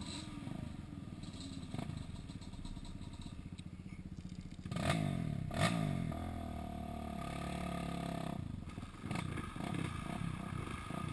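ATV engine running, revved up about five seconds in with two sharp knocks, held at a higher steady pitch for a few seconds, then dropping back to a lower, uneven running.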